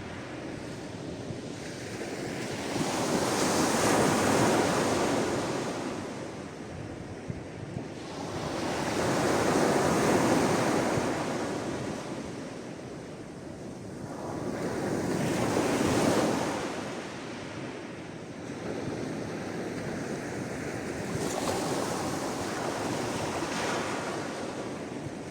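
Sea waves washing ashore in slow surges, each swelling and falling away about every six seconds. Three bigger waves come first, then smaller ones near the end.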